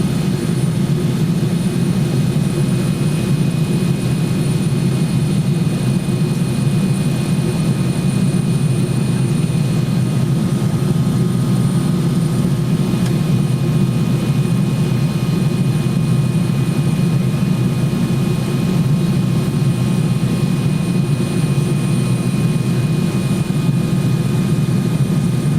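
Steady jet airliner cabin noise in cruise flight: an even low drone of engines and rushing air, with faint steady high tones above it.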